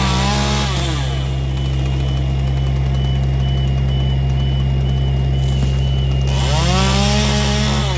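Chainsaw revving up and dropping back twice, once at the very start and again near the end, over the steady running of a heavy tree-work machine's engine.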